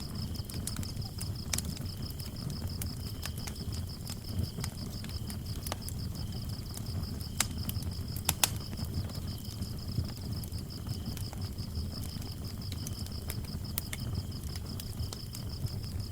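Wood fire crackling, with a low rumble and scattered sharp pops, the loudest a little past halfway. Crickets chirp steadily over it: one keeps up a high, evenly pulsed trill while a lower one comes and goes.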